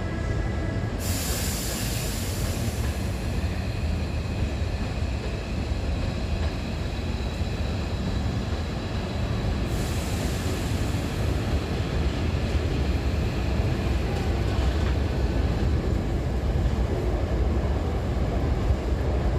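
Hankyu 8000 series electric train pulling out of the station and gathering speed, a steady rumble of motors and wheels that grows a little louder in the second half. A sudden hiss breaks in about a second in and again about ten seconds in.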